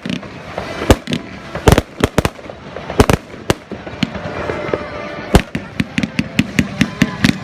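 Fireworks display: loud, irregularly spaced bangs of bursting shells, turning in the second half into a dense run of rapid crackling pops.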